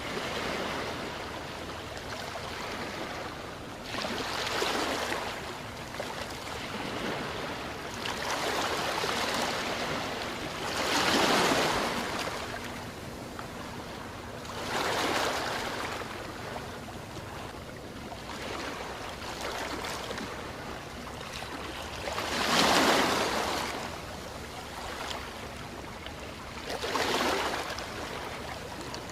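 Sea waves breaking and washing up a beach, each wave a swell of rushing surf that rises and fades every few seconds over a steady background wash.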